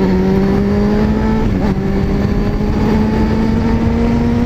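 Honda CBR600 F4i's inline-four engine, fitted with a shorty exhaust, pulling at a steady pace with its note climbing slowly, over a steady rush of noise.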